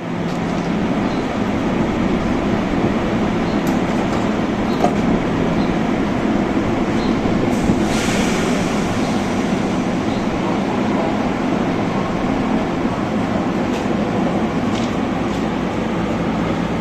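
Train running along the track: a steady loud rumble with a few faint clicks and a brief burst of higher hiss about halfway through.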